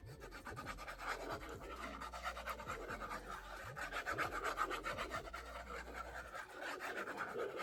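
Paper being rubbed by hand as a glued layer is worked down: a quick, continuous run of dry scratchy strokes.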